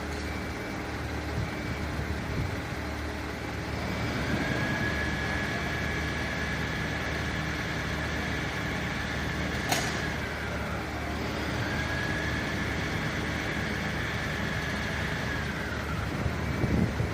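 Fire engine running with a steady low rumble. Over it, a faint high wail rises, holds for several seconds and falls away, twice, with one sharp click about ten seconds in.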